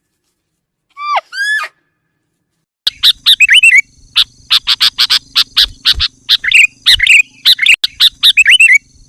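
Bird calls: two short calls sliding down in pitch about a second in, then from about three seconds a rapid, loud run of chirps and twittering.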